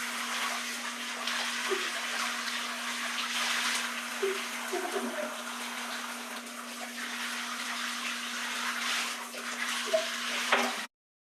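Water pouring or spraying steadily, a continuous rushing hiss over a steady low hum, cutting off abruptly near the end.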